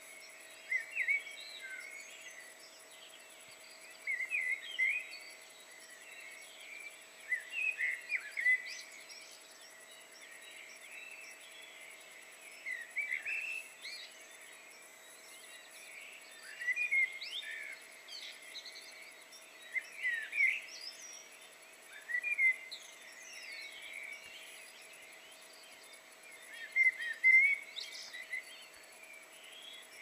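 Bird singing in short warbled phrases about every three seconds, with pauses between them, over a faint steady background hiss.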